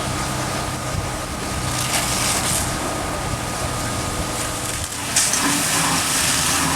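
Burning truck trailers crackling and popping over the steady running of an engine; the crackling grows louder about five seconds in.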